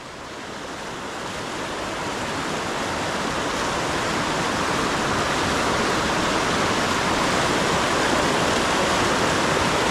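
Rushing river water, a steady wash of flowing current that grows louder over the first few seconds and then holds.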